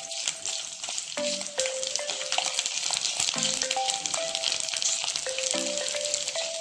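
Garlic cloves, curry leaves and dried red chillies frying in hot gingelly (sesame) oil in a clay pot, giving a steady sizzling hiss with small crackles as a ladle stirs them.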